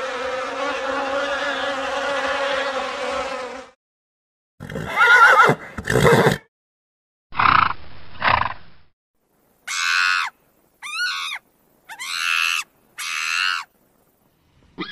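Honeybee swarm buzzing steadily for the first few seconds, then cutting off. Horses then whinny twice, followed by a longer, lower horse call. Four short high-pitched animal calls come near the end.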